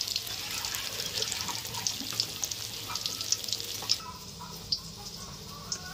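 Tofu frying in hot oil in a wok: a steady sizzle with frequent sharp crackles and pops, which thins and quietens after about four seconds, leaving only a few pops.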